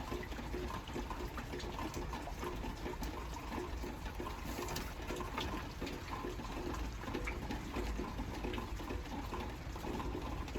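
Steady rain falling, with many small scattered taps of drops.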